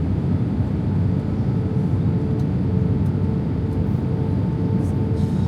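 Steady jet rumble inside the cabin of a British Airways Airbus A320 airliner, with a faint steady hum over it.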